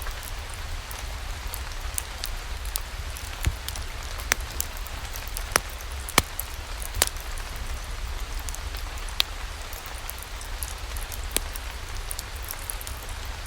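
Steady rain mixed with a crackling wood fire: sharp pops about once a second over an even hiss and a low rumble.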